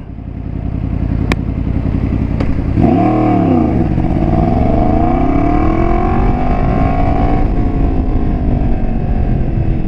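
Yamaha FZ-10's crossplane inline-four motorcycle engine heard through its exhaust: a low rumble growing louder, then about three seconds in the engine note dips briefly and climbs steadily for several seconds as the bike accelerates, levelling off near the end.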